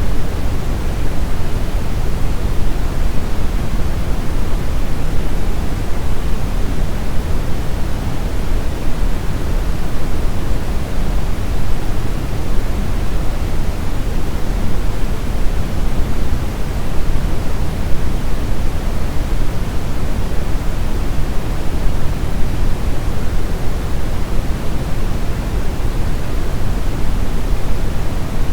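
Steady brown noise: an even, deep rushing hiss, strongest in the bass and darker than white noise, unchanging throughout.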